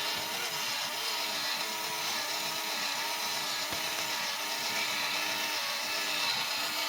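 Small electric motor and plastic gears of a 30-year-old plastic robot toy whirring steadily as it drives, its pitch wavering slightly; the toy is running again after its wires were re-soldered.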